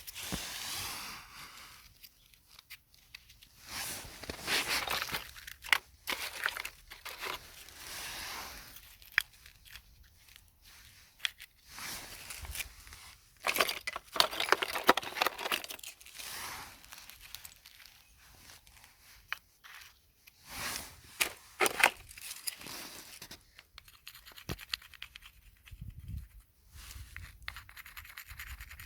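Close-miked ASMR handling sounds: irregular bursts of scraping and crinkling, with sharp clicks, separated by short quiet gaps.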